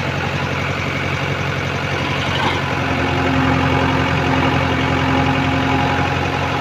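Heavy diesel engine running steadily, its sound growing a little louder with a new steady note about three seconds in.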